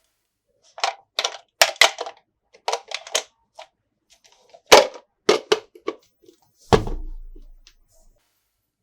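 Hard toy pieces knocking and clacking together in a quick, uneven run of sharp clicks. A heavier thump near the end has a low, fading resonance.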